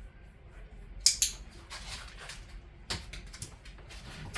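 Several sharp clicks and clatters, the loudest a quick pair about a second in and another near the three-second mark.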